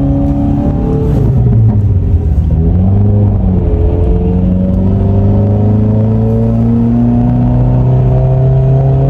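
Subaru WRX's turbocharged flat-four engine accelerating on winter tires, heard from inside the cabin. The pitch drops at gear changes and climbs slowly between them.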